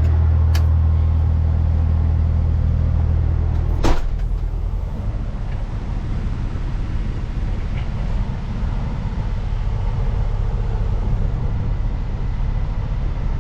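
Peterbilt 379 semi truck's diesel engine idling steadily, then a single sharp pop about four seconds in, after which the engine note turns to a rougher low rumble as the truck pulls forward.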